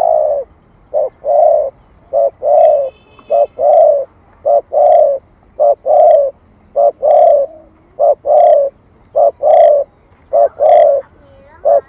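Spotted dove (cu gáy) giving its bowing coo: a short note followed by a longer coo, repeated about every 1.2 seconds, about ten times in a row.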